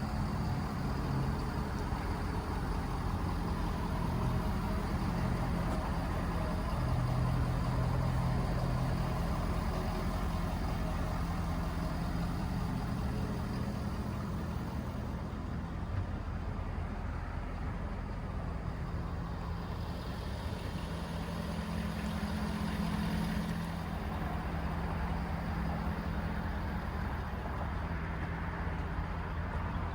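Ford F350's 6.7L Power Stroke V8 turbo diesel idling steadily, with a low hum that swells slightly a couple of times.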